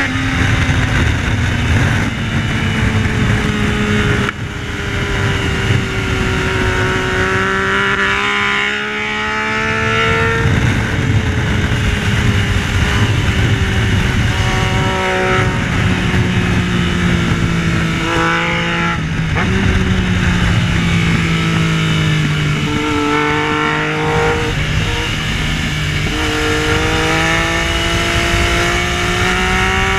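Yamaha Tracer 900's inline-three engine at racing speed, its pitch climbing and dropping again and again as it is accelerated, shifted and braked through corners, over a dense rush of noise.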